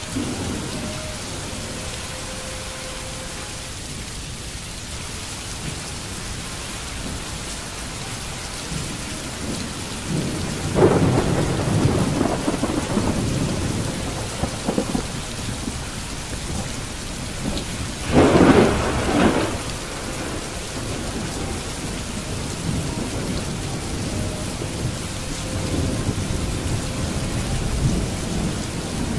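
Steady rain falling, with a louder rumble about eleven seconds in that lasts a few seconds, and a shorter, sharper one about eighteen seconds in.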